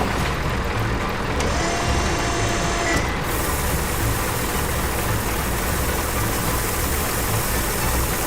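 A farm vehicle's engine running steadily, with a faint whine held briefly about two seconds in.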